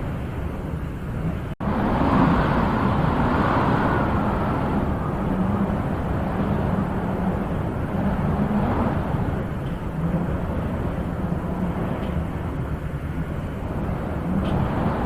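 Wind blowing steadily with gusts that swell and ease, the strongest about two to four seconds in; the sound cuts out for an instant about one and a half seconds in.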